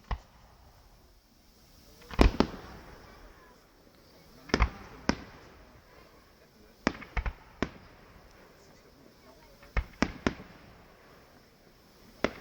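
Fireworks going off: sharp bangs in clusters of two or three, roughly every two to three seconds. The loudest cluster, about two seconds in, is followed by a short crackle.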